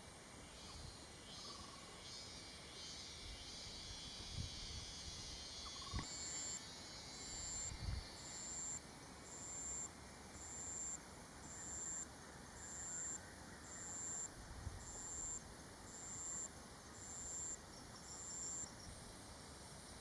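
Forest insects calling: a high hissing chorus gives way about six seconds in to a loud, high-pitched pulsing call, roughly one pulse a second, that stops near the end. A few faint low thumps sound under it.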